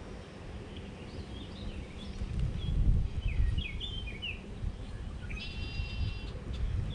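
Several small birds chirping, with a steady one-second call near the end, over a low rumble that swells about three seconds in.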